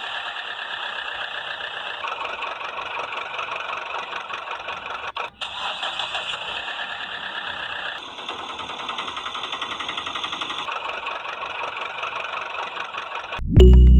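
Engine sound of a cartoon vehicle: a fast-pulsing buzzy drone with little bass. It shifts in tone every few seconds and drops out briefly about five seconds in. Loud music cuts in suddenly near the end.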